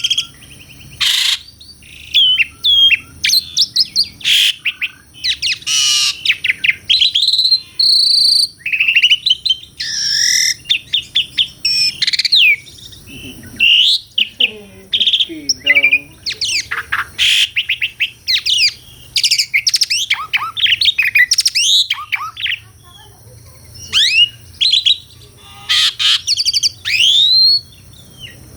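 Asian pied starling (jalak suren) singing a long, varied song: whistled notes, sweeping glides up and down, and rapid chattering runs, delivered in quick bursts with brief pauses.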